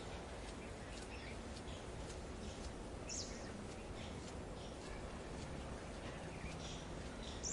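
Outdoor ambience: a steady background hiss with small birds chirping now and then, a clearer chirp about three seconds in and another near the end.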